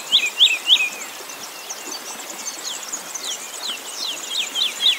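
A small songbird singing quick runs of short, repeated, falling notes, about four a second: one run at the start and another from about three seconds in. Fainter high chirping sits behind it.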